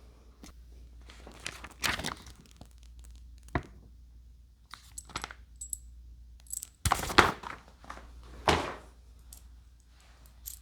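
Handling noises while assembling a model airplane: scattered knocks and clatters with some rustling, and a few short high clinks. The loudest knocks come in a cluster about seven seconds in.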